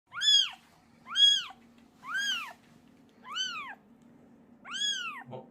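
Young kitten meowing five times in a row, high-pitched calls that each rise and fall in pitch.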